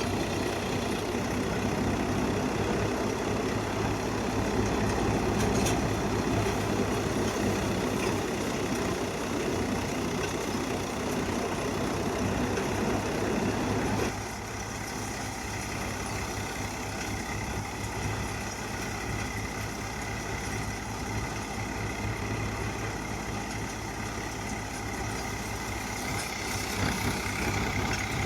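Multi-crop paddy thresher running, driven by a Powertrac tractor engine: a steady, dense mechanical din. It drops a little in loudness about halfway through.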